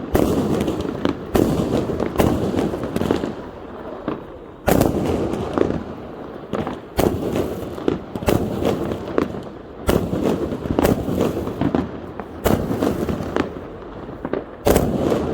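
Fireworks exploding: a run of sharp bangs at uneven intervals, each followed by crackling and rumbling echoes, with several going off close together at times.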